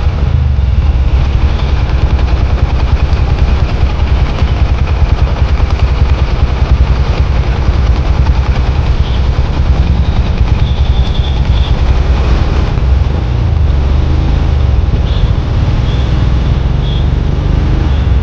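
Royal Enfield Himalayan 411 on the move, its single-cylinder engine running with a steady deep rumble through an aftermarket Red Rooster exhaust.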